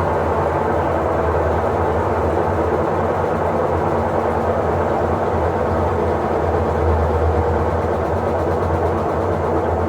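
Electrolux LTE08 washing machine running: a steady, unbroken motor hum and drum rumble.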